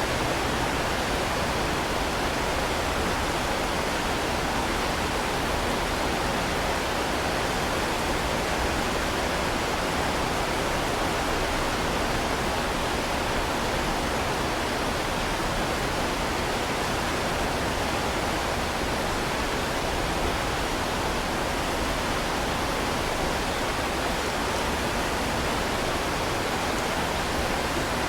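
Heavy rain falling in a steady, even hiss that does not change, with no separate drops or thunder standing out.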